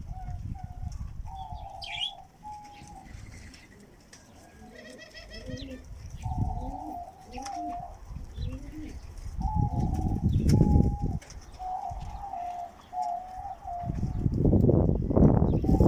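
Pigeons cooing, with several low coos swelling up in turn, loudest about ten seconds in and near the end. Smaller birds chirp in the background.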